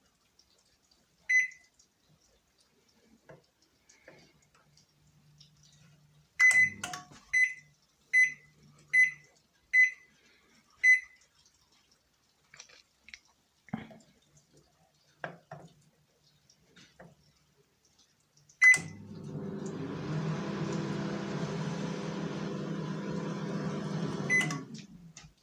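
Panasonic inverter microwave oven: a single beep, then six keypad beeps about a second apart as it is set, then a start beep and the oven running with a steady hum for about six seconds, ending with another beep. The oven is running on its inverter power supply after two IGBT transistors were replaced.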